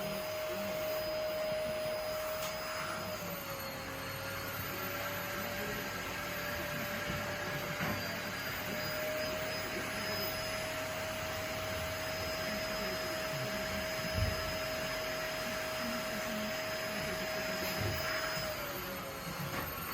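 Vacuum cleaner running with a steady motor whine; its pitch sags briefly twice, once a few seconds in and again near the end. A single short thump about two-thirds of the way through.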